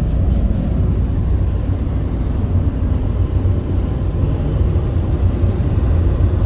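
Steady low rumble of a Ryko SoftGloss XS2 in-bay automatic car wash running, heard from inside the car.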